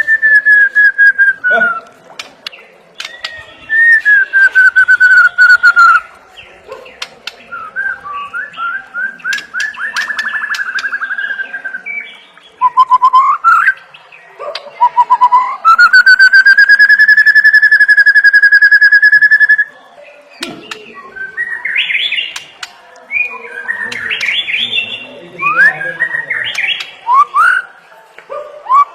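White-rumped shama (murai batu) singing: long, loud falling whistles and trilled notes, then one long held whistle lasting about four seconds. It ends in a run of quick, varied chattering phrases.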